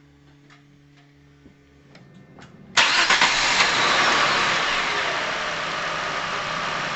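Chevrolet Epica engine being started: a few faint clicks, then about three seconds in it catches and runs, loudest at first and settling toward a steady idle. The engine is freshly filled with oil for an engine-flush cycle.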